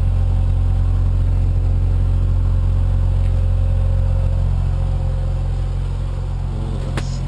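1990 Mazda RX-7's turbocharged 13B twin-rotor rotary engine idling steadily with a deep, even drone. A single sharp click comes near the end.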